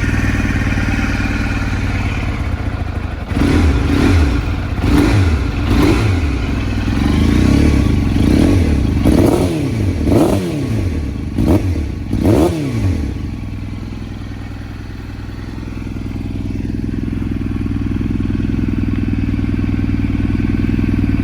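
1998 Suzuki GSX-R600 SRAD's inline-four engine idling, then revved in a string of quick throttle blips, each one climbing and dropping back. After that it settles to a steady idle.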